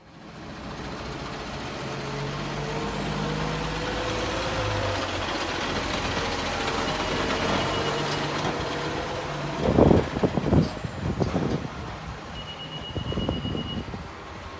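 Pierce Arrow XT fire engine's diesel engine running, its pitch shifting as it revs. About two-thirds through come several loud low rumbling bursts. Near the end there is a short, rapidly pulsing electronic beep.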